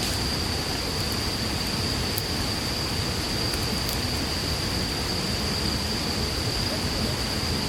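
Wood campfire burning with a steady hiss and a few faint crackles, under a steady high-pitched tone.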